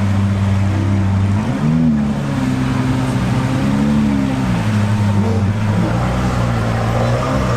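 A car engine running close by, first at a steady idle, then from about a second and a half in with several brief revs whose pitch rises and falls before it settles back to idle near the end.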